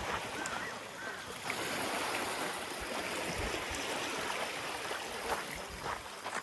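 Small waves washing onto the beach, a steady rush of surf.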